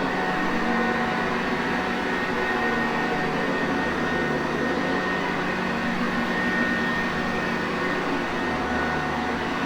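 Sanitaire Perfect vacuum cleaner running steadily: a constant rush of air and motor hum with a few faint held tones.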